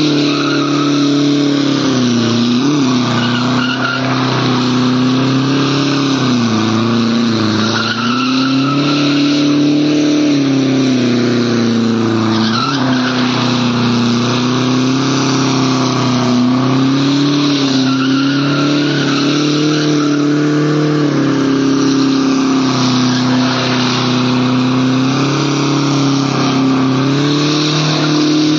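Mercedes-Benz C220 turbo diesel doing a burnout: the engine is held at high revs that waver slightly up and down while the spinning tyres squeal against the road.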